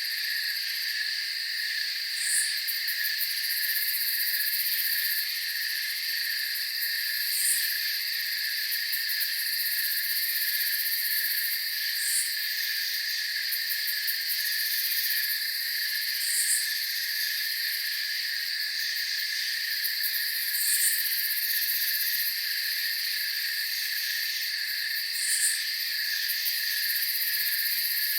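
Night-time chorus of crickets trilling steadily at a high pitch, with a short, higher-pitched call repeating about every four to five seconds.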